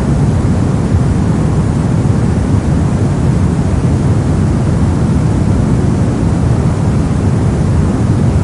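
Steady generated noise, a deep rushing hiss heavier in the bass than in the treble, unchanging throughout.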